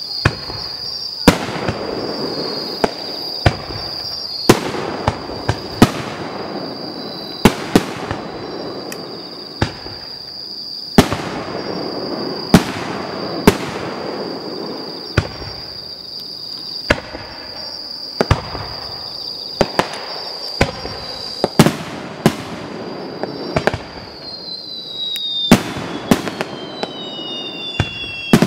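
Aerial firework shells bursting overhead in a display: sharp bangs at irregular intervals, roughly one every second or two, each followed by a rolling echo.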